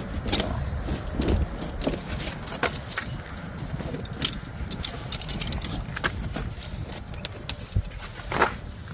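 Steel tire chains clinking and rattling in irregular metallic clinks as they are worked by hand onto a loader's rear tire, with a louder clank near the end.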